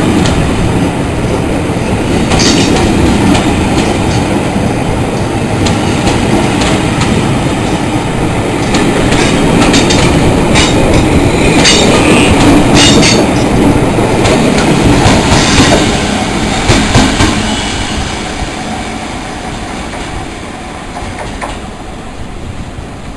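A train running along the platform, its wheels clattering over the rail joints with scattered sharp high squeals, then fading away over the last few seconds.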